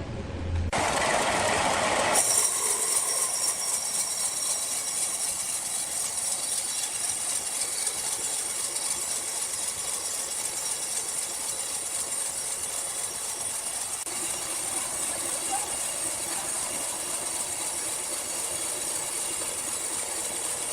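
Sawmill machinery running: a short burst of noise about a second in, then a steady high-pitched hiss and whine that holds evenly throughout.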